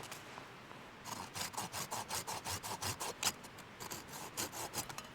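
Small hand saw cutting through wood in quick back-and-forth strokes, about four a second, after a pause of about a second at the start.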